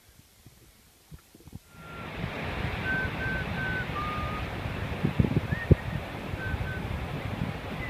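Ocean surf and wind noise fading in about two seconds in and holding steady, with a few short high chirps over it and a couple of low thumps past the middle.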